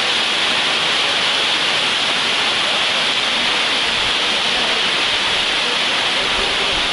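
Waterfall close by: steady, loud rushing of falling water.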